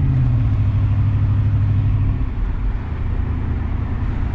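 1993 Chevrolet Caprice wagon's 305 small-block V8 running under throttle, heard from inside the cabin. About two seconds in, its steady note drops away to a low rumble as the engine falters. The engine runs badly: it only pulls well when held at full throttle.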